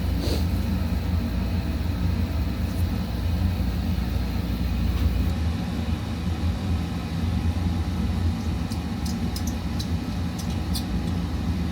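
Oil burner running with a steady low rumble, fired back up after its nozzle and strainer were serviced, with a few faint light ticks in the second half.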